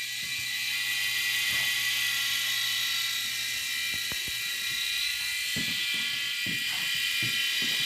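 Small electric motor of a toy RC helicopter whirring with a steady high whine, with a few short knocks in the second half.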